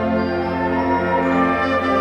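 Chamber wind ensemble playing held chords, with brass such as French horns prominent; the chord shifts just before the end.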